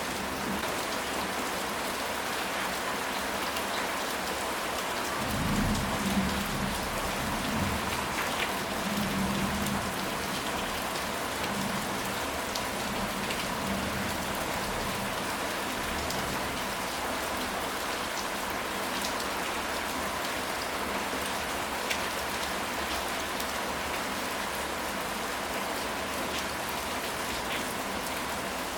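Steady rain falling on a surface as an even hiss. About five seconds in, a low rumble of thunder swells and fades away over several seconds.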